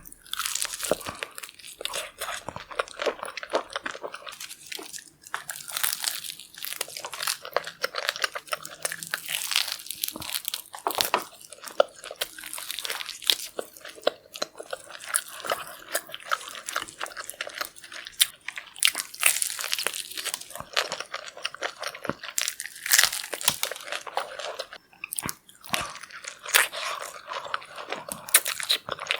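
Close-miked eating of saucy seafood: steady crunching bites and wet, clicky chewing, with short pauses between mouthfuls.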